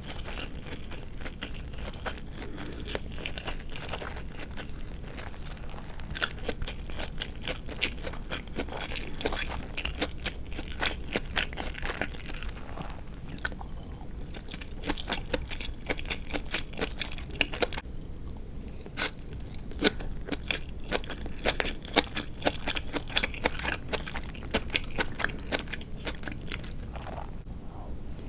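A person chewing close to the microphone, with many crisp, irregular crunches: eating karaage, Japanese deep-fried marinated chicken with a crisp fried coating, along with rice.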